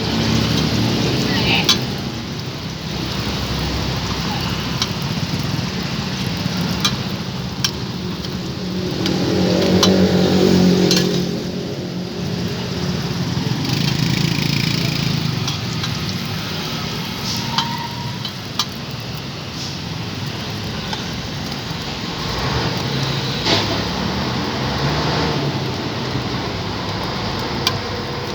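Roti frying on a street-stall griddle: a steady sizzle with many sharp metallic taps and scrapes of a spatula. Voices and passing traffic sit behind it.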